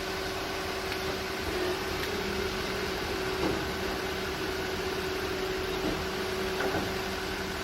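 A steady machine-like hum with a constant low tone, and a few faint ticks.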